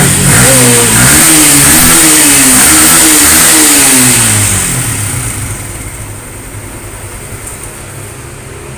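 Yamaha Sniper 150's single-cylinder four-stroke engine revving up and down, then fading away after about four seconds.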